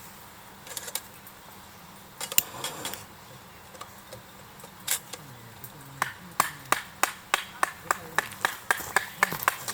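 Blade strokes shaving firewood by hand: a few scattered knocks, then from about six seconds a steady run of short, sharp strokes about three a second.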